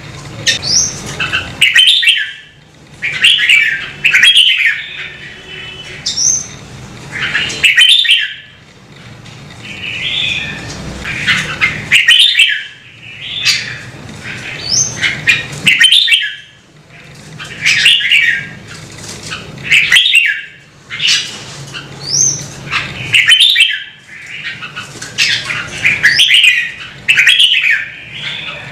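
Red-whiskered bulbul singing: short, loud, warbling phrases repeated every second or two, some ending in a quick high rising note.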